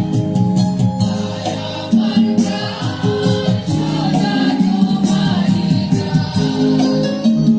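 Music: a choir singing with instrumental accompaniment over a steady percussion beat.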